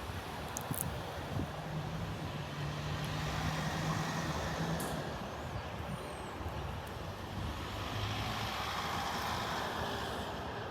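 Queensland Rail IMU100-class electric multiple unit pulling out of the station: a steady rumble of wheels and running gear, with a low electric motor hum between about two and five seconds in and again around eight seconds.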